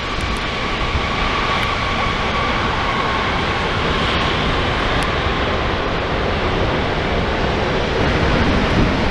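Wide-body jet airliner passing close on the runway approach, its engines giving a loud, steady roar with a high whine that fades out about three seconds in.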